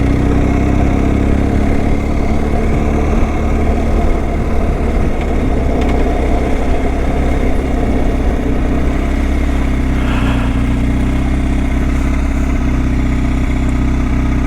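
Motorcycle engine running at a steady, nearly constant speed while riding, heard from on the bike.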